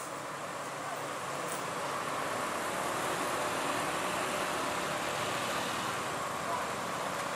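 Steady vehicle engine and road noise, growing slightly louder over the first few seconds, then holding.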